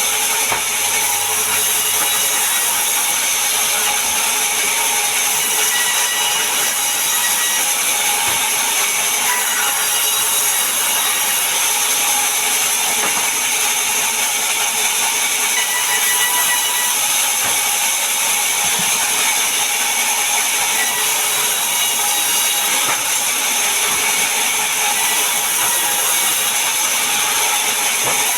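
Power saw cutting steadily through mahogany wood, a continuous high, rasping noise without a pause.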